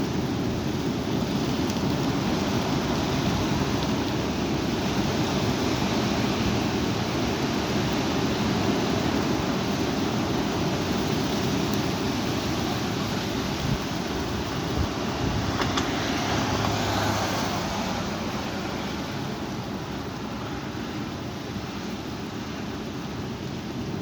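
Strong wind blowing hard against the microphone, a steady rushing noise that eases somewhat about three-quarters of the way through.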